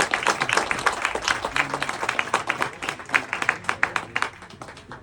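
A crowd applauding, the clapping thinning and dying away near the end.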